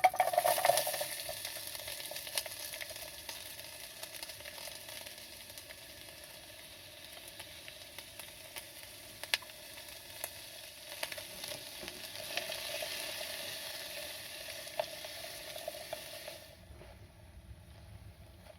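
Food sizzling and frying in a hot pan. It starts suddenly, as if the food has just hit the pan, and goes on as a steady crackling hiss with scattered sharp pops. It cuts off abruptly near the end.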